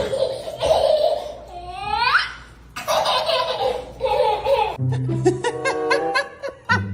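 A person laughing hard in bursts, with one high rising squeal about two seconds in. About five seconds in, the laughter gives way to music with a steady bass line.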